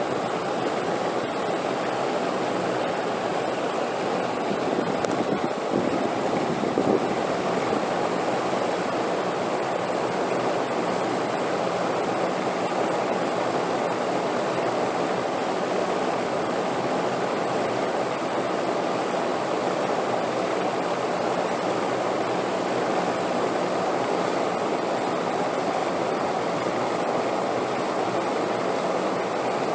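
Steady wind, an even rushing noise without gusts or breaks, with a faint high steady tone underneath.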